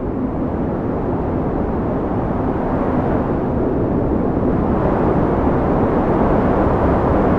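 Strong wind blowing in a steady, deep roar, swelling slightly louder over the seconds.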